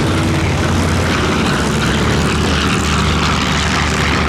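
Piston-engine propeller warbird flying past, its engine and propeller making a steady, loud drone.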